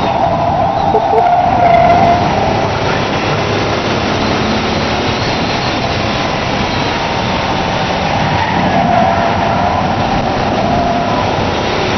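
Mazda Xedos 6's V6 engine running steadily at mid revs, about 4,000 to 4,500 rpm, at track speed, heard from inside the car together with road and wind noise.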